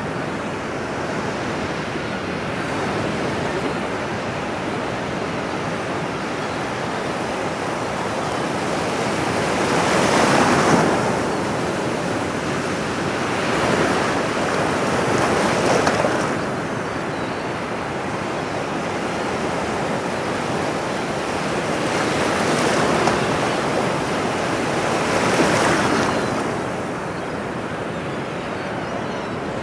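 Ocean surf: a steady wash of water noise with several waves swelling and breaking, the strongest about ten seconds in.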